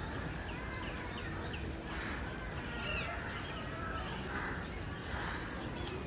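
Birds in the trees chirping and calling in short, scattered notes, over a steady low background rumble.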